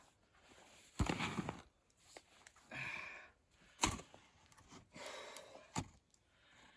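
Three sharp thuds of hand-tool strikes, with heavy, breathy exhalations between them from a man working hard.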